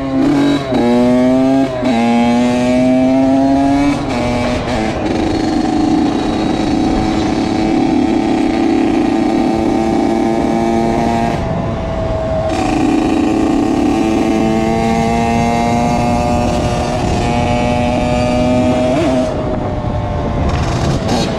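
2001 Honda CR80's 80cc two-stroke single-cylinder engine revving up through the gears three times in quick succession, then running at steady speed with a brief drop in revs about halfway and another near the end. The rider hears no knocking from it.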